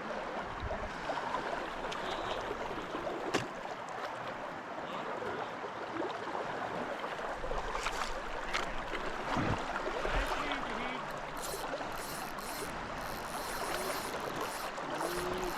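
River water rushing steadily, with a few sharp clicks.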